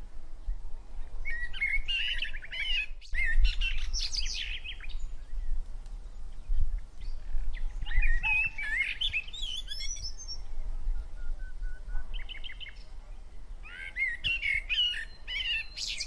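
Songbirds chirping and twittering in several short flurries of quick, warbling notes with pauses between.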